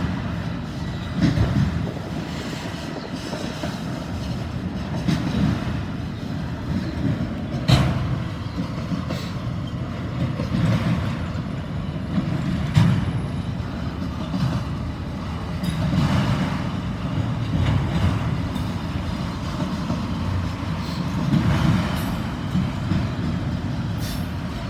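Long freight train's cars rolling past: a steady low rumble of wheels on rail, with a clunk every second or two as wheels cross rail joints.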